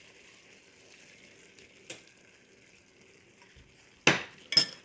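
Pan of vegetables in a thin gravy sizzling faintly on the stove as a cornstarch slurry goes in to thicken it. Near the end, two loud short clatters half a second apart, typical of a utensil knocking against the pan.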